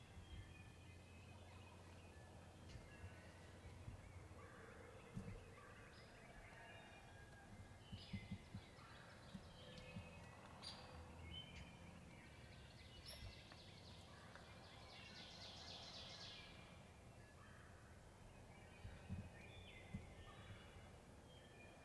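A distant wild turkey gobbling faintly, once, about two-thirds of the way through, among scattered songbird calls.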